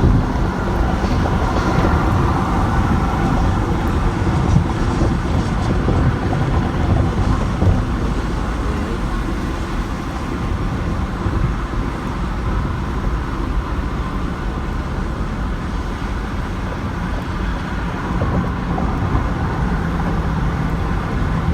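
Steady road and vehicle noise of driving in traffic: a constant low hum of engine and tyres.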